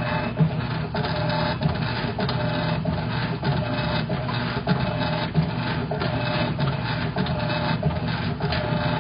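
Electrolux LTC10 top-loading washing machine running a wash, with a mechanical whine that rises and drops in a steady cycle about once a second. This is the noise the owner says grows louder and louder when the turbo setting is used.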